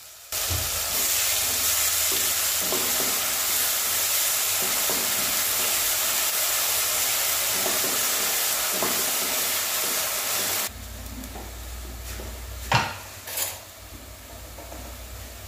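Onion, ginger, garlic and green chilli paste sizzling in hot mustard oil in a steel kadai as it is stirred with a wooden spatula. The sizzle cuts off suddenly about two-thirds of the way through, and two short knocks follow.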